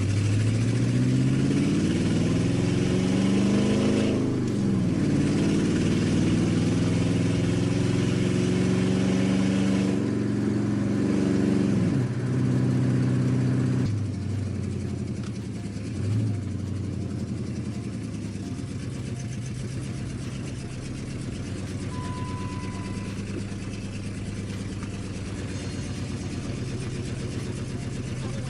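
Car engine pulling up through the revs with sharp drops in pitch between pulls, like gear changes. About halfway through it settles back to a lower, steadier run.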